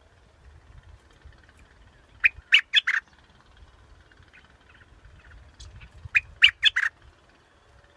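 Bulbul (the Thai 'dok taeng' bulbul) calling: two quick phrases of four short, sharp notes each, about two seconds in and again about six seconds in. It is played as a decoy call to lure birds.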